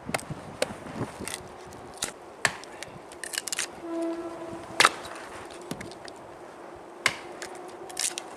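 Dry wood being split into chips for kindling: about ten sharp, irregular cracks and knocks, the loudest a little before five seconds in.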